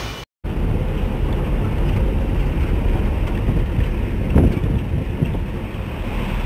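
Low, steady rumble of road traffic mixed with wind buffeting the microphone, with one brief louder knock about four seconds in.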